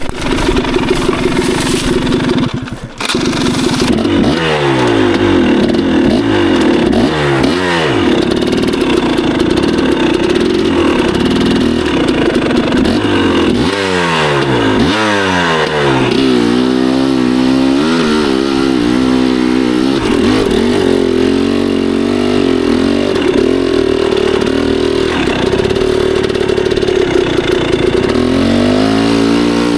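Two-stroke dirt bike engine revving up and down as the throttle is worked, with repeated quick rises and falls in pitch and a short drop in level about three seconds in.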